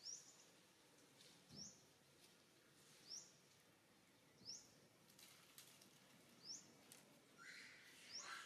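Faint bird call: a short, high chirp sweeping upward, repeated six times about a second and a half apart, with a brief lower call near the end.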